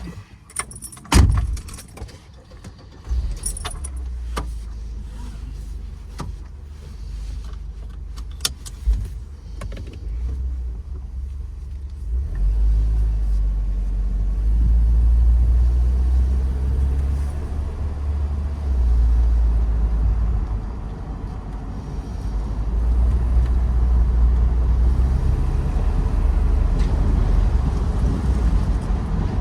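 Mercedes 230 GE's four-cylinder engine running as a steady low rumble, which grows louder about twelve seconds in. A few sharp clicks and knocks come in the first seconds.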